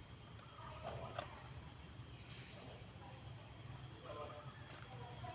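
Sooty-headed bulbul (kutilang) calling faintly in short chirping phrases, about a second in and again about four seconds in.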